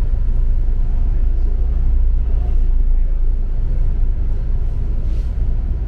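Double-decker bus running on the road, a steady low rumble of engine and tyres heard from inside the cabin.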